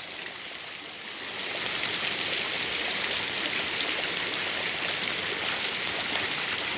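Heavy rain pouring down on a street, a steady rushing hiss that grows louder about a second in.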